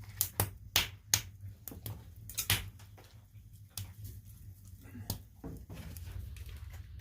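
Irregular sharp clicks and knocks, a quick cluster in the first three seconds and another about five seconds in, over a low steady hum.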